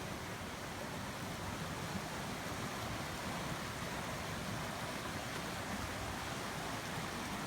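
Steady rush of flowing stream water, an even noise without breaks.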